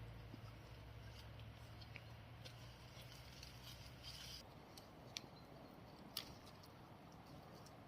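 Near silence: faint background hiss with a low hum that stops about halfway through, then two short, sharp clicks.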